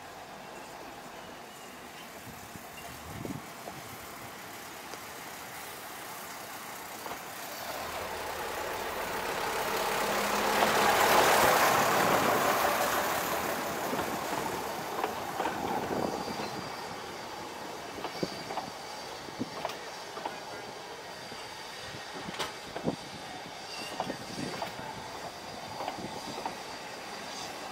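Narrow-gauge train running into the station. The locomotive passes close about eleven seconds in, the loudest moment, then the coaches roll slowly by, their wheels clicking over the rail joints.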